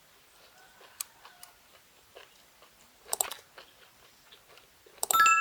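Faint chewing and crunching of food, with a louder crunch about three seconds in. Near the end a hard utensil-on-dish clink rings on in a few clear tones.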